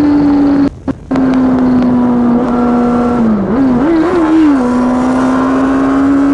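Yamaha Fazer 600's inline-four engine running at steady throttle through a handmade exhaust. It cuts out briefly about a second in. In the middle its pitch dips and wavers up and down, then settles steady again.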